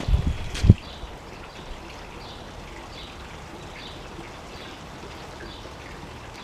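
Faint short bird chirps repeating irregularly over a steady outdoor background hiss, after a couple of low bumps and a sharp knock in the first second.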